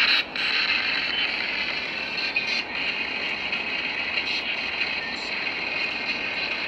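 A steady hiss, strongest in the upper-middle range, with a few faint clicks.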